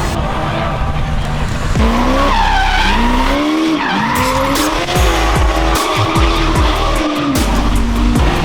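Drift car sliding on track, its tyres squealing in long wavering glides over the engine's steady low running.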